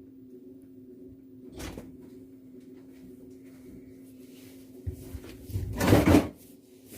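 Washing machine running with a steady low motor hum, broken by a knock about one and a half seconds in and a louder clunk near the end.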